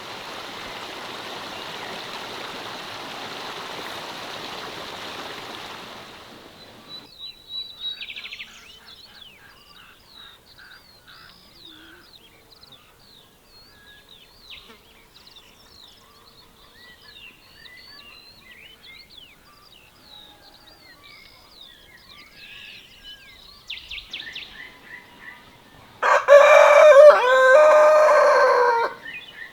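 A rooster crowing once, loud and drawn out, near the end. Before it, small birds chirping, and in the first few seconds a steady rushing noise.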